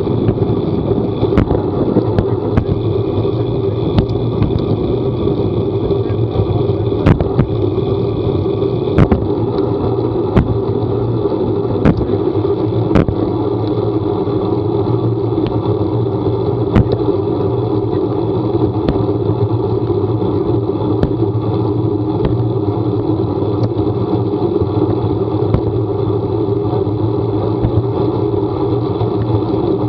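Vehicle engine running steadily while on the move, a constant hum with irregular sharp ticks scattered over it.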